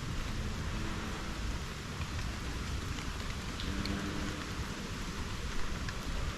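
Steady rain falling on rainforest foliage, an even hiss with a few separate drips, over a low rumble.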